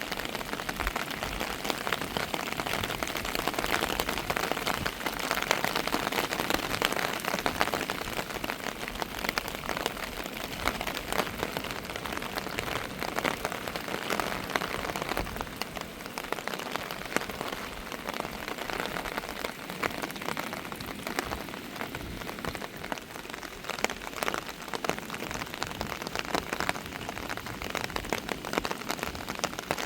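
Steady rain falling, a dense hiss packed with the sharp ticks of individual drops striking a surface close by.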